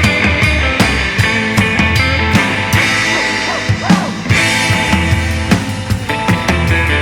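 Surf rock band playing: electric guitar over bass and a drum kit keeping a steady, driving beat. The low bass drops out for a couple of seconds in the middle, then comes back in.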